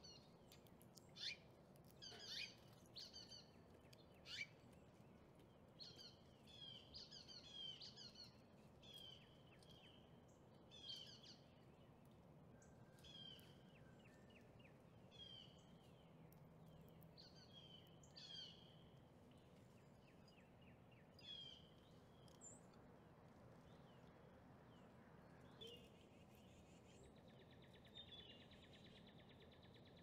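Faint songbird chirping: a series of short, repeated chirps throughout, with a buzzy trill near the end, over a low background hiss.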